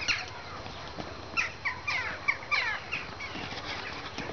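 Birds chirping: many short, quick chirps in irregular clusters.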